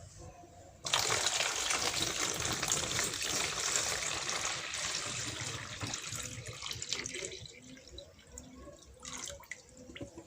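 Water running and splashing in a plastic-bottle fountain, starting suddenly about a second in and fading away over several seconds, then a few faint drips.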